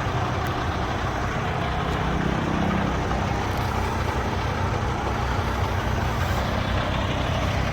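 Semi truck's diesel engine idling steadily: a constant low hum with an even rush of noise over it.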